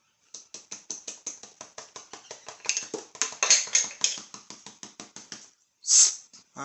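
Rapid light tapping, about six taps a second for some five seconds, growing louder midway, then one louder single knock near the end.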